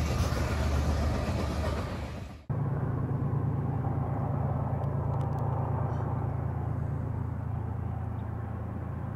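A train passing at speed: a loud rush of wheels on rail that fades and then cuts off abruptly about two and a half seconds in. A steady low rumble from a train follows, easing slowly.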